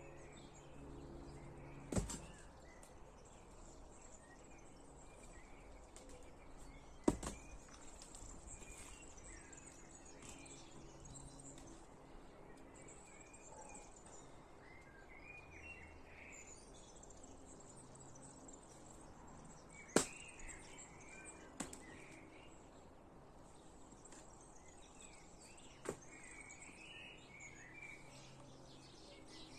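Faint birds chirping, with five sharp knocks scattered through, the loudest about seven and twenty seconds in.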